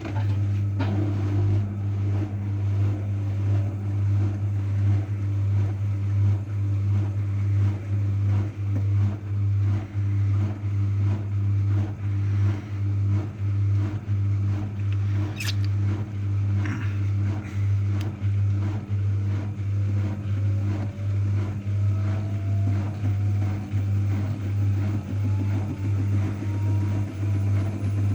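AEG front-loading washing machine spinning, its motor running with a steady low hum and a regular pulse from the turning drum, and a faint whine rising slowly in pitch as the drum speeds up. It starts abruptly.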